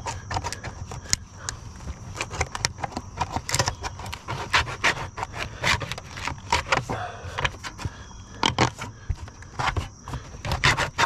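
Bent sheet-metal roof flashing being worked into place under the roofing, making a run of irregular scrapes, clicks and metallic rattles.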